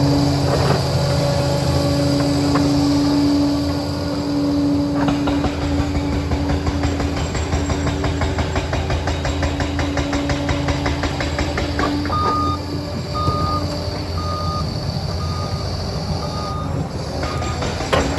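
Liebherr 746 crawler dozer's diesel engine running under steady load, with a fast, even clatter through the middle. From about twelve seconds in, its reversing alarm beeps about once a second, six times.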